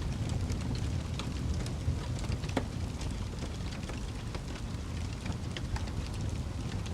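Wood fire burning in a fireplace: a steady low rumble of flames with scattered crackles and pops, one sharper pop about two and a half seconds in.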